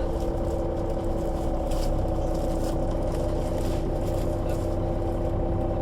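Solaris Urbino 12 III city bus at a standstill with its diesel engine idling: a steady low hum with constant whining tones over it.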